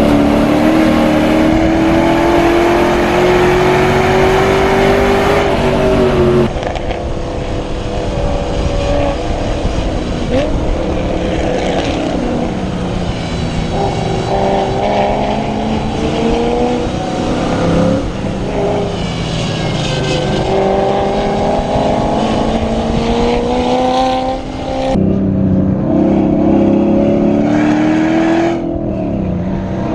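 LS-family V8 race car engines at full throttle on a racetrack, the revs climbing through each gear and dropping at the upshifts, several times over.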